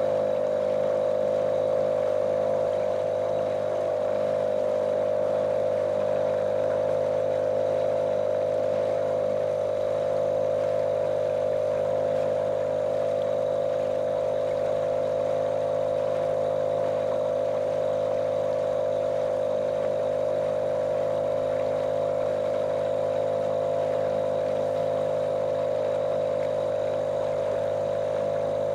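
Small motorboat's motor running at a steady speed, a monotonous drone with a strong, even hum that does not change.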